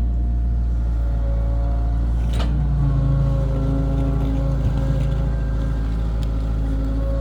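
Diesel engine of heavy construction machinery running steadily with a deep rumble. A stronger droning tone joins about three seconds in and eases off near the end, as if under more load, and there is a single click shortly before it.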